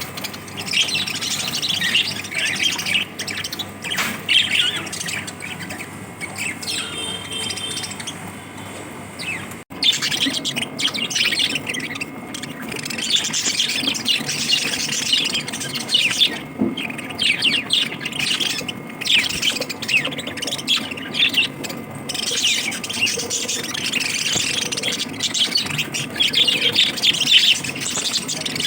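Pet lovebirds chirping and chattering continuously, many short high calls overlapping, with a brief break near the middle.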